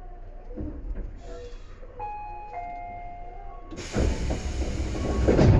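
Tobu 10030 series electric train running, heard from inside the car: a steady rumble, a high ringing tone about two seconds in that steps down in pitch, then from about four seconds a much louder rushing, clattering noise that builds to the end.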